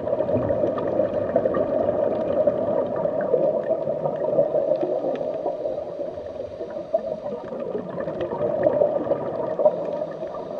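Steady bubbling, gurgling water: an underwater ambience.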